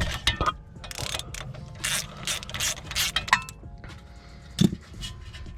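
Ratchet wrench clicking in irregular runs while working a 10 mm bolt on a car's rear suspension, with one louder sharp knock near the end.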